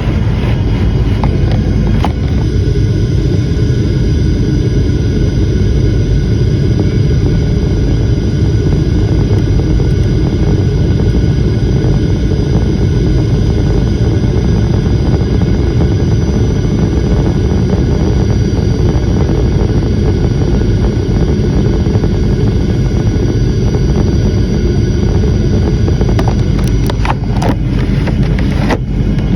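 Airliner landing: steady loud rumble of jet engines and rushing air, with a faint steady whine above it and a few brief clicks near the end.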